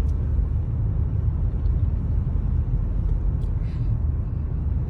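Steady low rumble of a car being driven, heard from inside the cabin: engine and tyre noise on a snow-covered road.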